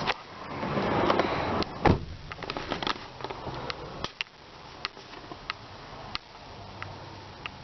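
Handling noise, then a single heavy thump about two seconds in, as a door of the 2002 Nissan Pathfinder is shut, followed by scattered light clicks.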